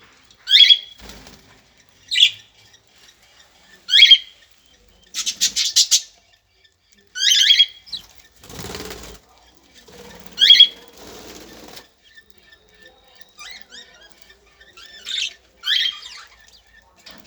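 Birds calling with short, sharp, loud chirps every second or two, with a quick rattling series of clicks near the middle and bouts of soft rustling like wing flapping.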